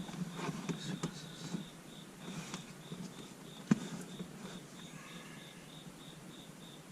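Light rustling and clicks of a dash cam cable being worked into a slot in the car's plastic interior trim, with one sharp click about three and a half seconds in. Under it a steady high-pitched chirp repeats about four times a second.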